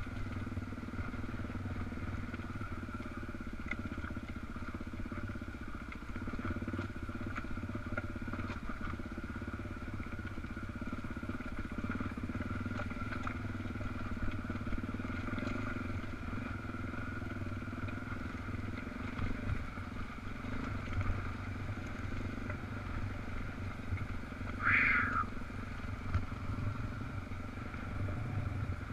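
Dual-sport motorcycle engine running steadily while ridden. A short high squeal sounds once near the end.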